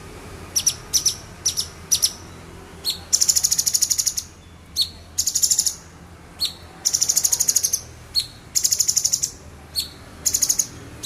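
Male orange-bellied leafbird singing: sharp single high chirps alternating with rapid-fire trills of quick repeated notes, each trill lasting about half a second to a second, five of them through the song.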